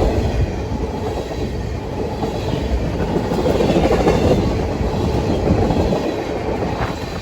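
Train passing close by: the steady rumble and rattle of railroad cars rolling over the rails, swelling about four seconds in.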